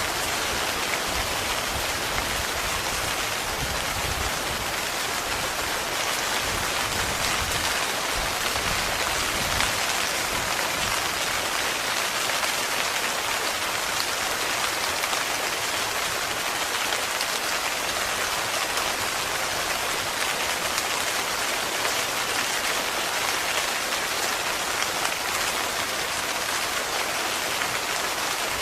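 Heavy rain falling steadily on a tent, an even hiss with no let-up. A low rumble sits under it for the first several seconds and then fades out.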